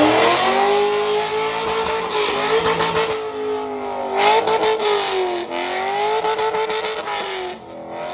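C5 Corvette's V8 at full throttle on a drag launch, accelerating hard down the strip; the engine note climbs and drops back several times as it shifts gears, fading near the end as the car pulls away.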